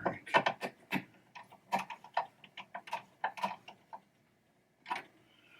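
Small metal parts of a pinball trap door and diverter mechanism being handled and worked on by hand, giving a run of irregular clicks and light taps over the first few seconds, then one more click near the end.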